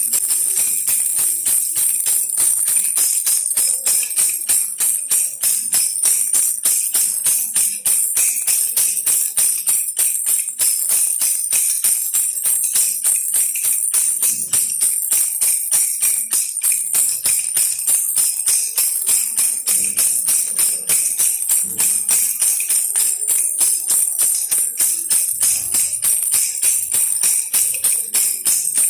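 Baby rattle shaken steadily, a bright jingling rattle that pulses in a quick, even rhythm.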